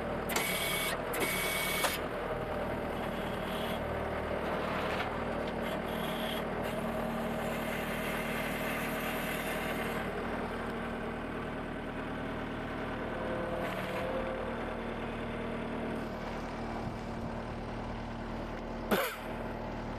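Skid steer engine running steadily, with a few short louder mechanical sounds in the first two seconds and a brief gliding sound near the end.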